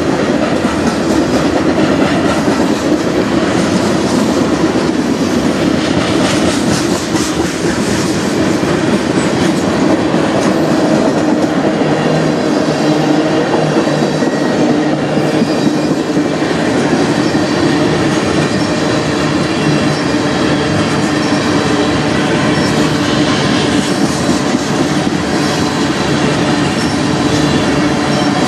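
Freight cars of a CN manifest train, covered hoppers and tank cars, rolling past close by: a steady, loud rumble and rattle of steel wheels on rail, with a faint high squeal now and then.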